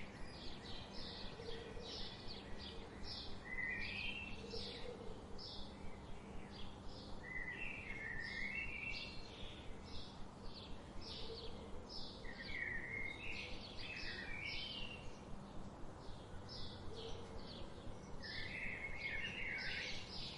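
Songbirds chirping in quick repeated high notes, several a second, with a few short lower warbling phrases now and then, over a steady background hiss.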